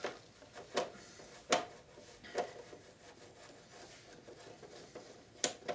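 Plastic casing of a vintage Philips radio cassette recorder being handled during disassembly: a few light clicks and knocks, roughly one a second early on and two more near the end, with faint rubbing between them.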